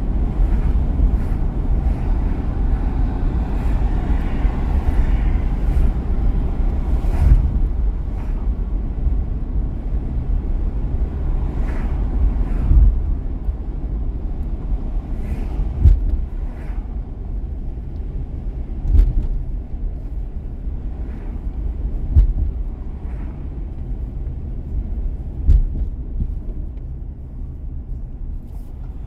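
Car driving at speed: steady low tyre and road rumble, with a short thump about every three seconds as the tyres cross joints in the road surface.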